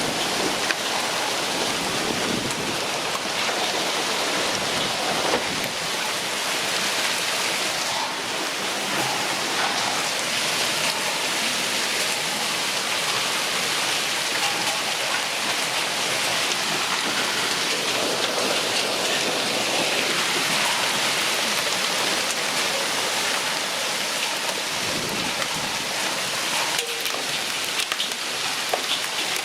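Heavy rain falling steadily, with scattered small drop impacts.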